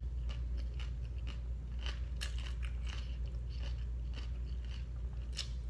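Close-up chewing of a bite of vegetable sushi roll: irregular crunching clicks, over a low steady hum.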